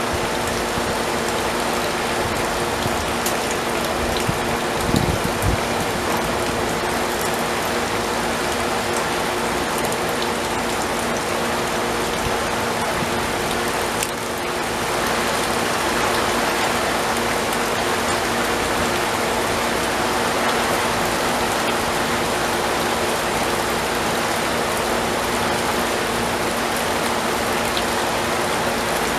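Heavy rain pouring steadily, a dense even hiss, with a steady low hum underneath. The rain gets a little louder about halfway through.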